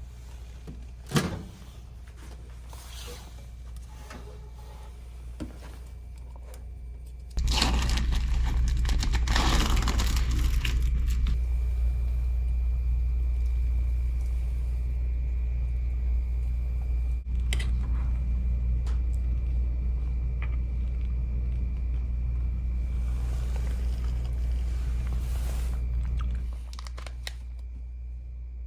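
A sharp click, then a microwave oven switching on about seven seconds in and running with a steady low mains hum and a faint high whine, cutting off near the end. Some rustling and crinkling as it starts.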